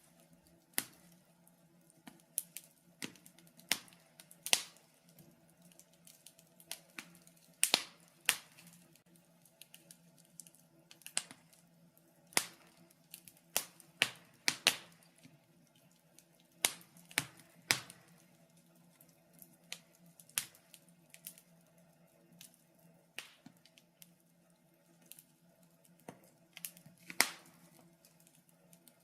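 Wood fire crackling in a fireplace: irregular sharp pops and snaps, loudest about a third of the way in and again near the end, over a faint steady hum.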